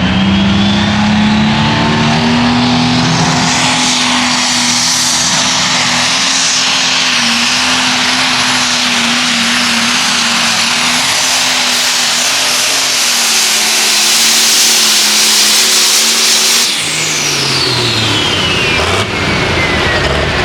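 Pulling tractor's engine held at full throttle, loud and steady, during a pull. About three-quarters of the way through it comes off the throttle: the engine note falls and a high turbocharger whine winds down.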